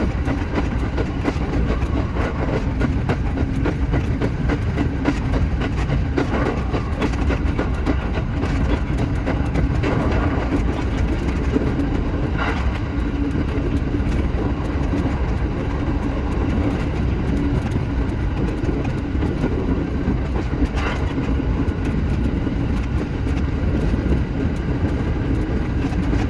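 Shinano Railway SR1 series electric train running along the line: a steady rumble with a constant hum and a few clicks from the wheels on the track.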